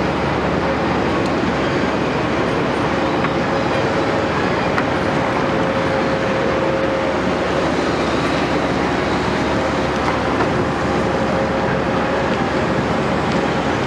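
Caterpillar 329E excavator's diesel engine and hydraulics running steadily, with a continuous whine over the engine noise.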